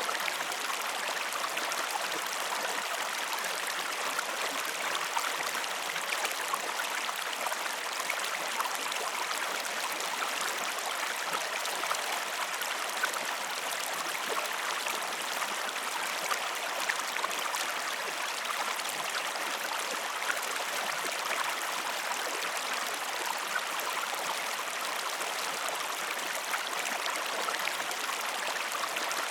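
Flowing river water: a steady, even rush with many small ticks of droplets.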